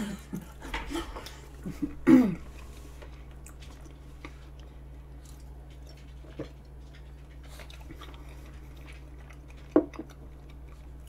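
Close-miked chewing of a mouthful of vanilla pound cake, with small mouth and utensil clicks. A brief, loud voice-like sound about two seconds in and a sharp click near the end.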